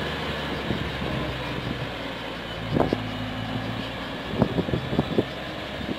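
Diesel locomotive engine running steadily, with a few sharp metallic clanks about three seconds in and a quick run of them between four and five seconds in.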